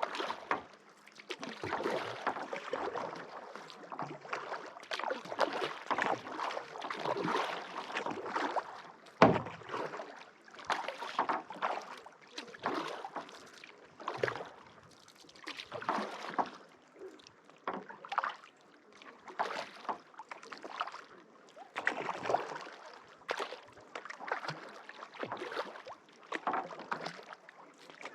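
Kayak paddle strokes dipping into and pulling through lake water, a splash about once a second alternating side to side, with one sharp knock about nine seconds in.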